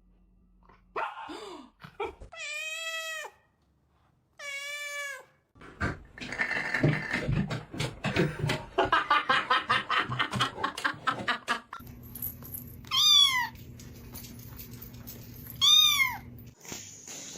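Cats meowing. There are two drawn-out meows in the first few seconds, then a stretch of rapid pulsing sound, then two short, high mews that fall in pitch over a steady low hum.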